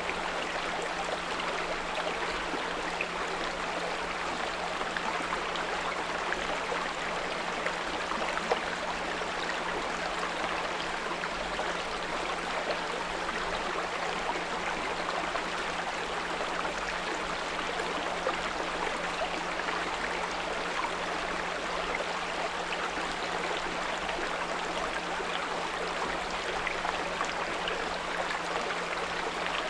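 Small brook babbling and trickling steadily, with a steady low 174 Hz pure tone underneath.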